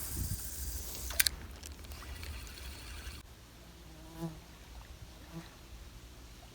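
A fly buzzing close by, coming and going in short passes, with a sharp click about a second in.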